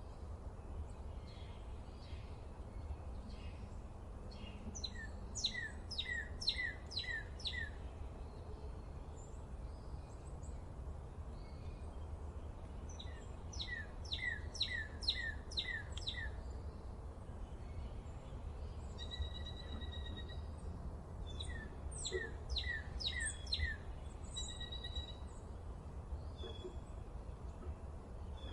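Songbirds singing outdoors: three times a bird gives a quick run of about five sharply falling notes, with a few longer held calls between the runs. A steady low rumble of background noise lies underneath throughout.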